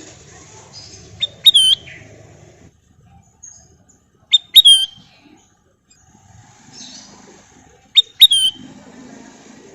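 Kutilang emas bulbul giving a short, sharp call of two or three quick whistled notes, repeated three times about three seconds apart.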